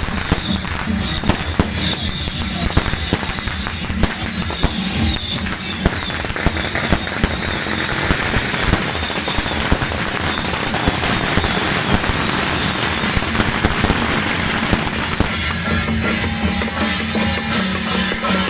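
Strings of firecrackers crackling in rapid irregular pops over procession music with drums; the music comes through more clearly in the last few seconds.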